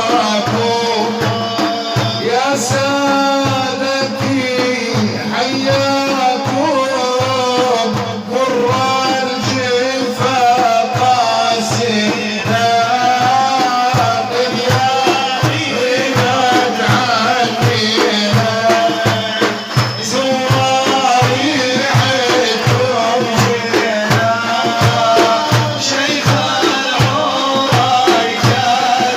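Middle Eastern nasheed: a man singing a qasida in a wavering, ornamented melody over a steady, quick drum beat.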